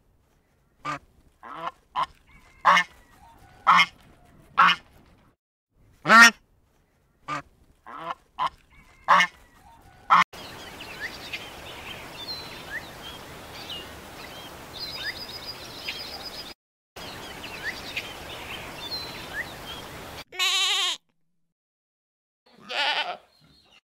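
A domestic goose honking, about a dozen short calls in the first ten seconds. Then steady background hiss with faint scattered bird chirps, and near the end two wavering goat bleats.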